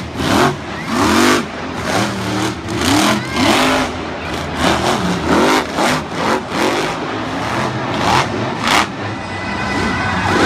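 Monster truck engine revving in repeated short blips, its pitch sweeping up and falling back with each rev.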